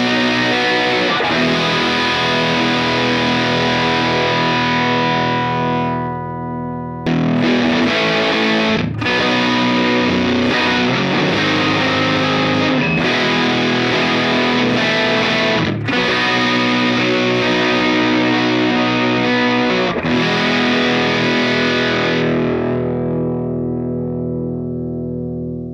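Electric guitar through a ProCo RAT distortion pedal, playing ringing distorted chords. The first part is the current RAT2; after a chord dies away about seven seconds in, the playing restarts through a RAT modified to 1979 vintage spec. The last chord fades out near the end.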